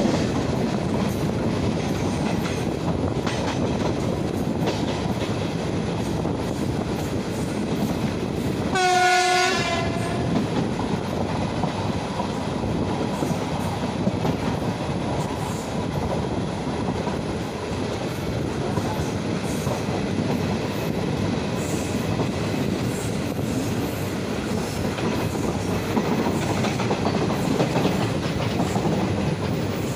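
Passenger train coaches running at speed, with steady wheel-on-rail rumble and clickety-clack over the track. About nine seconds in, a train horn sounds once for about a second.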